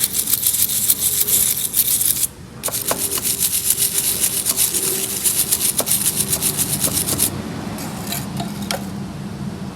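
Stiff brush scrubbing grimy engine metal in quick back-and-forth strokes, with a short break about two seconds in and the strokes growing fainter and sparser after about seven seconds.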